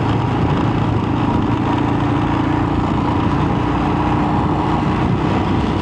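Royal Enfield Himalayan's single-cylinder engine running at a steady cruise, its pitch unchanging, under a constant rush of wind and road noise.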